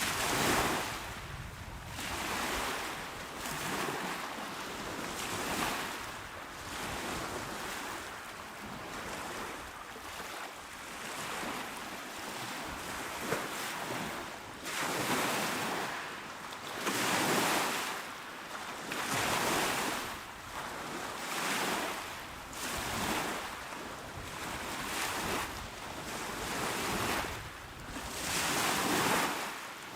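Small, calm sea waves breaking and washing onto a shore, one after another, each swelling and falling away every couple of seconds.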